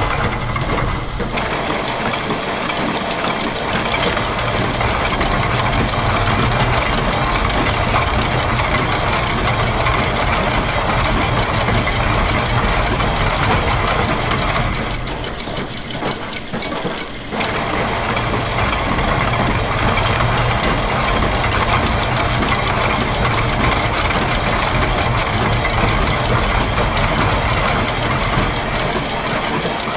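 Layered loops of machine sounds (gears, ratchets, clockwork and a press) running together as a dense, steady mechanical soundscape over a low hum. About halfway through, the higher layers drop out for a couple of seconds before the full mix returns.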